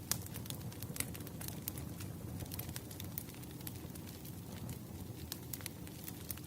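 Wood fire burning: frequent sharp crackles and pops of the burning logs over a steady low rumble of the flames, with a louder pop or two in the first second.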